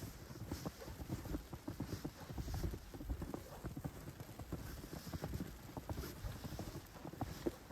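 Footsteps walking on snow, a run of short irregular steps over a faint steady hiss.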